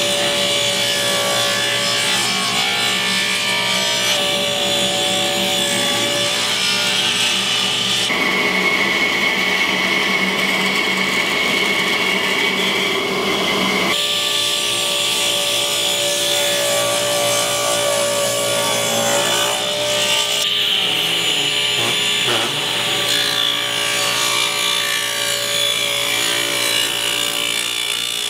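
Table saw running and ripping hardwood strips, the blade's steady whine and cutting noise changing abruptly several times between passes.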